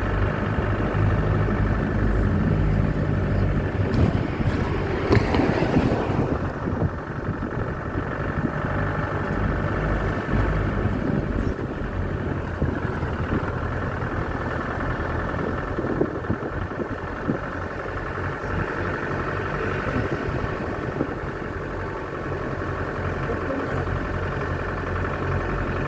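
A vehicle engine running steadily with a constant low hum and road noise. It is louder and busier for a couple of seconds near the start.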